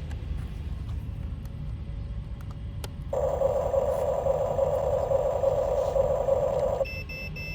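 Huina RC dump truck's small electric drive motor and gearbox whining steadily for a few seconds over a low rumble, starting and stopping abruptly.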